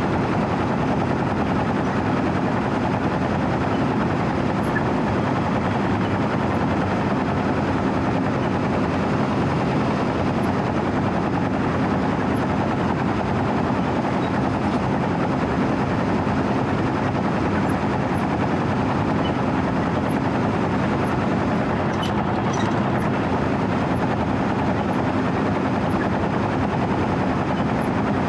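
Diesel engine of a 4-foot asphalt cold milling machine running steadily at a constant speed as the machine travels, with a steady hum.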